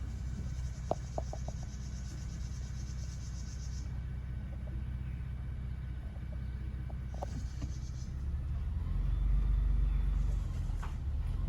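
Steady low rumble of a vehicle driving on the road, swelling louder about nine seconds in, with a few faint clicks about a second in.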